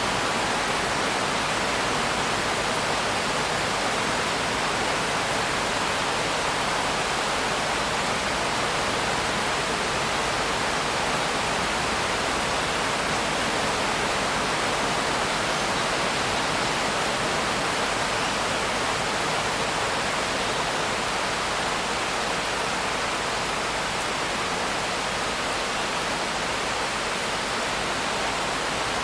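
Steady rain, a dense even hiss with no single drops standing out and no change in level.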